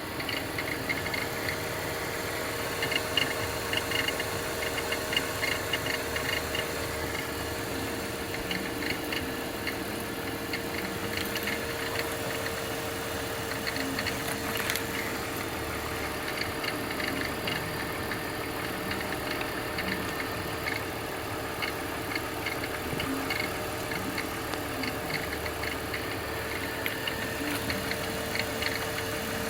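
BMW engine idling steadily with an irregular light clicking and rattling from the accessory-belt area. This is the creaking, rattling noise that the owner traces to a faulty automatic belt tensioner.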